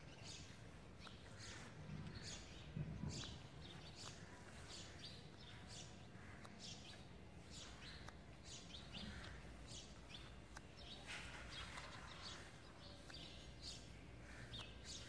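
Birds chirping faintly in short, high chirps that repeat roughly every half second, over a low, steady outdoor background.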